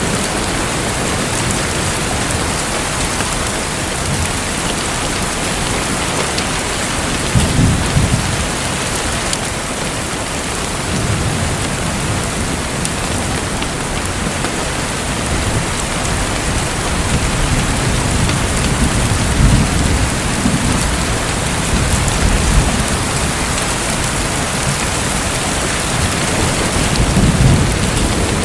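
Steady hiss of running water, with soft low rumbles swelling up several times.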